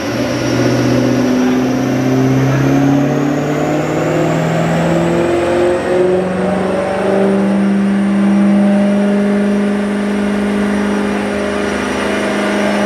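The 2008 Shelby GT500's supercharged V8, fitted with a lightly ported 2.3 L TVS blower, is running under load on a chassis dyno with the revs climbing. The supercharger's high whine rises in pitch along with the engine and exhaust, then levels off in the last few seconds.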